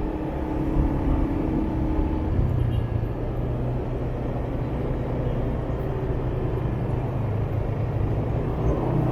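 Motorbike engine running steadily while riding in city traffic, with road noise around it.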